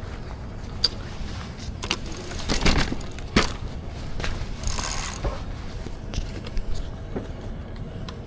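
Handling noise of metal parts: a run of irregular metallic clinks, rattles and knocks, thickest about two and a half to three and a half seconds in, with a short rustle about five seconds in.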